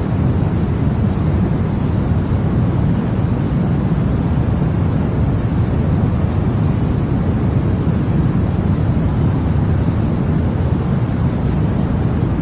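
Continuous sleep-noise track sold as white noise: an even, unchanging rush weighted toward the low end, so it sounds more like a deep rumble than a hiss.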